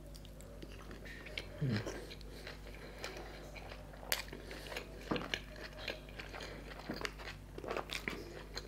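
Close-miked chewing of a momo dumpling: a steady run of wet smacking and crunchy clicks from the mouth, with a brief rising hum about two seconds in.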